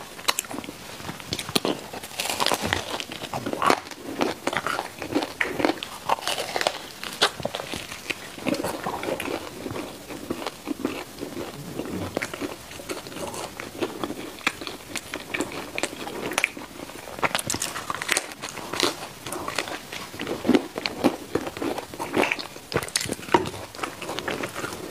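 Close-miked biting and chewing of baked mochi balls, the crisp crust crunching and crackling between the teeth in a dense run of irregular clicks.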